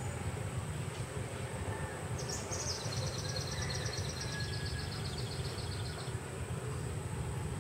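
A bird's fast, high trill, lasting about four seconds and falling slightly in pitch, over a steady low rumble.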